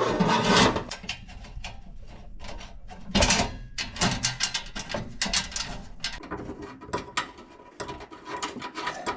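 Irregular metallic clicks, knocks and scrapes as the bottom panel of a catalytic-converter anti-theft shield is lifted into place under a car and its bolts are started by hand. There is a louder rattling scrape at the start and another about three seconds in.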